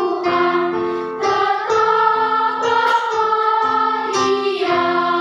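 Children's choir singing a song in unison with instrumental accompaniment: held sung notes over a steady, repeating chord pattern.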